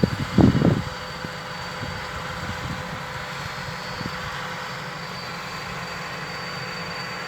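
Excavator engine running steadily with a thin steady whine, and a few low thumps in the first second.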